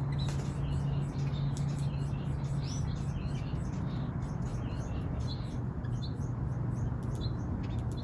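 Small aviary birds giving short, high squeaky chirps here and there, over a steady low hum.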